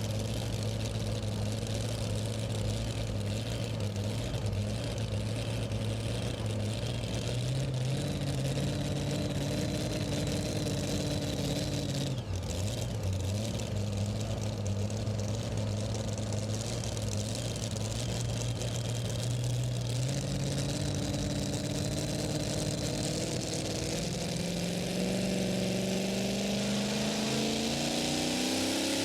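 Super modified two-wheel-drive pulling truck's engine running steadily at the line, with a brief dip about twelve seconds in. Over the last few seconds its pitch climbs as it revs up to start the pull.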